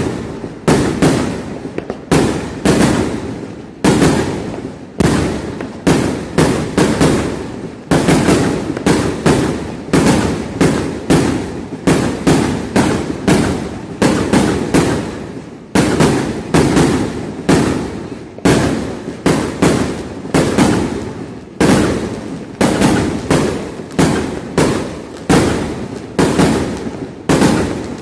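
Fireworks going off in a continuous barrage: sharp bangs about two to three a second, each fading quickly and overlapping the next.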